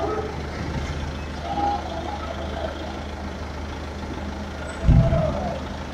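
Hinge pivot of a ferry's heavy ramp door giving short pitched friction squeals as the multi-ton door is opened, over a steady low engine hum. Its weight grinds at the pivot. About five seconds in there is one heavy low thud.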